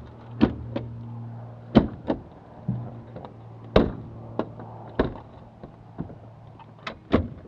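A series of sharp knocks and clunks, about a dozen, spread unevenly, like a light aircraft's cabin door and fittings being handled. A steady low hum underneath fades about halfway through.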